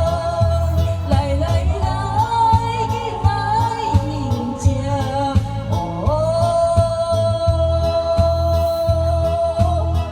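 A solo singer singing over a backing track with a steady beat, holding one long note from about six seconds in.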